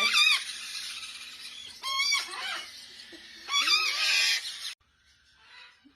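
Baby parrots giving raspy, wavering begging calls while being hand fed, in three bursts; the sound cuts off abruptly about three quarters of the way through.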